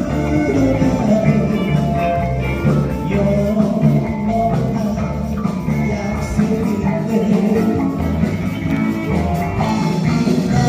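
A live amateur rock band playing, with electric guitar and a singing voice, in a 7080-era Korean pop-rock style.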